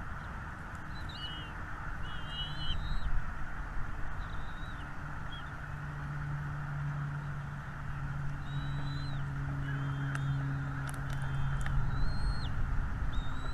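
Small birds chirping in short, high notes, several times over, against a steady low hum and hiss.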